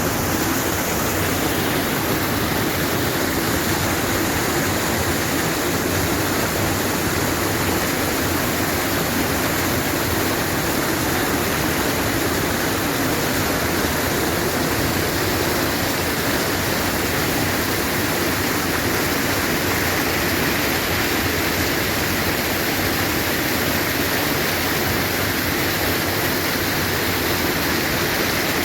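Spring water gushing hard out of the ground in a steady, loud rush, heard close up.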